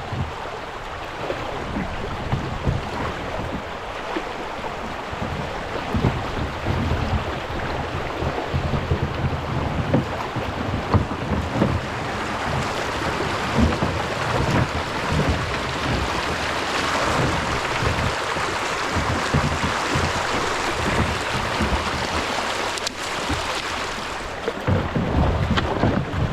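Shallow creek water rushing around a kayak, louder through the middle, with irregular low knocks and bumps from the plastic hull and paddle, and some wind on the microphone.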